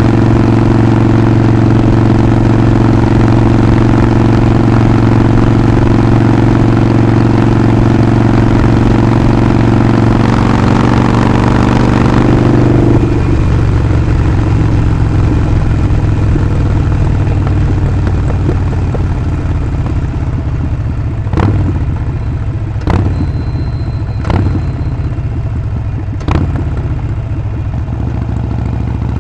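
Harley-Davidson Sportster Forty-Eight's air-cooled 1200 cc V-twin under way, running steadily with a deep, even note, then picking up slightly. About thirteen seconds in the throttle closes and the engine drops to a quieter, rougher off-throttle burble as the bike slows, with four sharp clunks over the following seconds.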